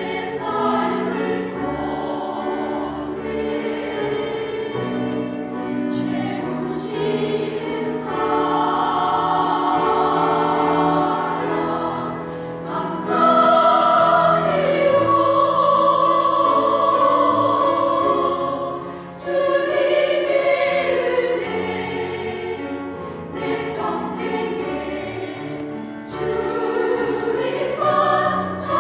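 A small church choir (vocal ensemble) singing a Korean gospel song in parts, sustaining long notes. It swells louder about halfway through, then briefly drops away.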